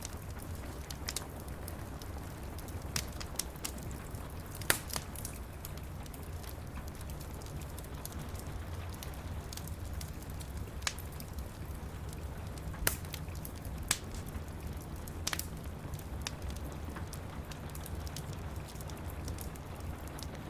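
Wood fire crackling in a fireplace, with irregular sharp pops, the loudest about five seconds in, over steady rain.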